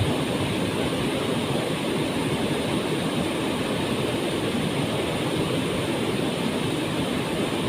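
Waterfall rushing steadily: an unbroken, even noise of falling water, heaviest in the low and middle range.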